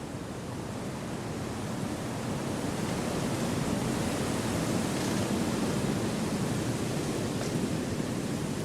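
Wind blowing through forest trees: a steady rushing noise that swells over the first half and eases slightly near the end.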